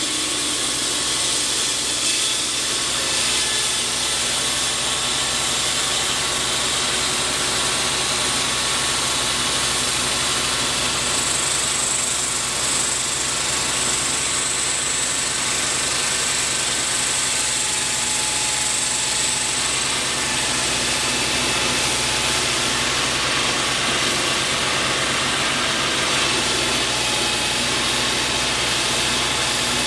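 A steady engine-driven machine running without a break: a constant hum and hiss. A faint high whine is added from about a third of the way in to about two-thirds of the way in.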